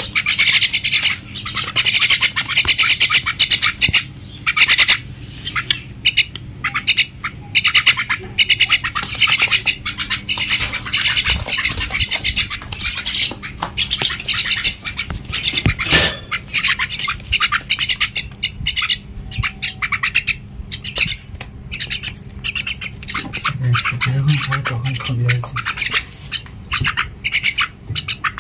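Common myna calling with a long run of harsh, rapid squawks and chatter, with one sharp click about two thirds of the way through.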